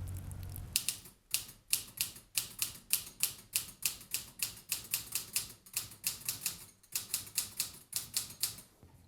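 Typewriter keys being struck at a steady typing pace, about four sharp clacks a second, broken by a few short pauses.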